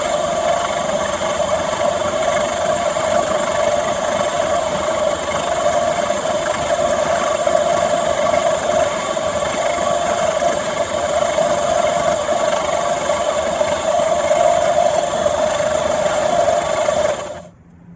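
Small briquette extruder driven by a low-wattage water-pump electric motor, running with a steady mechanical hum, cutting off suddenly near the end.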